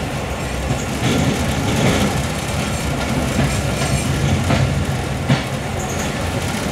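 Passenger train rolling slowly along the track, a steady rumble with wheels clacking over rail joints now and then.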